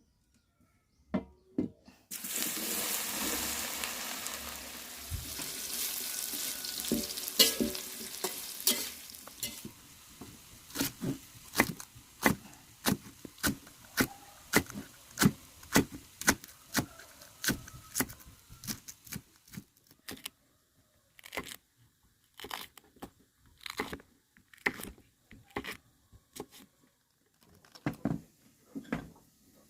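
Food dropped into hot oil in a pan, sizzling loudly at first and slowly dying down, while a spatula stirs it with repeated taps and scrapes against the pan.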